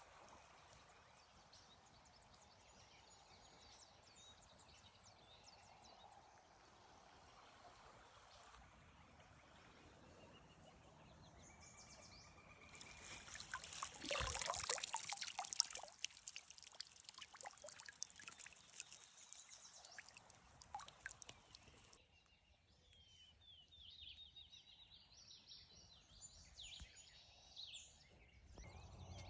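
Water pouring and splashing for several seconds midway, with many small clicks, as a minnow trap is lifted out of the creek and drains; it stops abruptly. Quiet creek ambience before it and faint bird chirps near the end.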